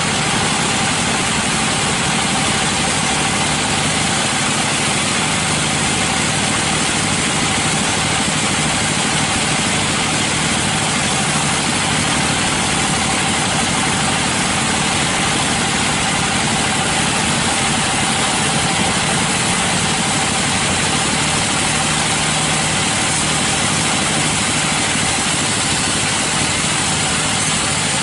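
Sawmill machinery running steadily: a constant engine drone with a steady whine on top.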